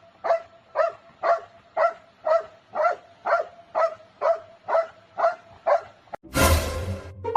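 A dog barking over and over in an even rhythm, about two short barks a second. Near the end the barking stops and a loud, noisy burst lasting about a second follows.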